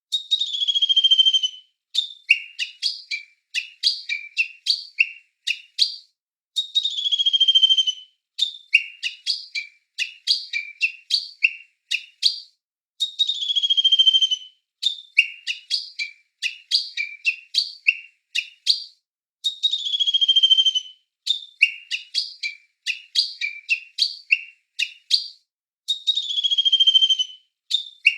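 A songbird singing a phrase that opens with a long, falling whistle followed by a quick run of short, clipped chirps. The phrase repeats about every six and a half seconds.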